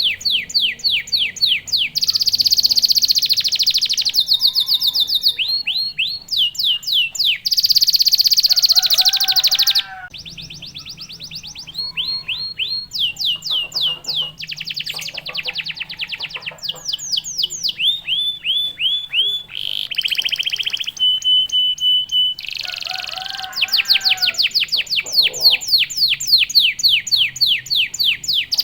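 Domestic canary singing a long, fast song: runs of rapidly repeated trilled notes, each run switching to a new phrase every second or two, with a short held whistle in the latter half.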